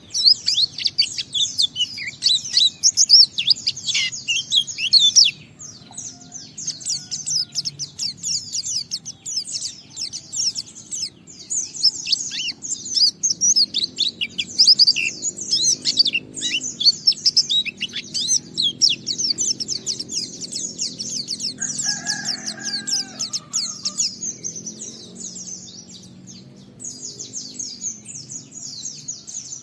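White-eye (pleci) singing a long, rapid twittering song of fast high chirps with hardly a break, the continuous "ngalas" style used to prompt other white-eyes to sing. It pauses briefly about five seconds in. A short, lower bird call sounds once about two-thirds of the way through.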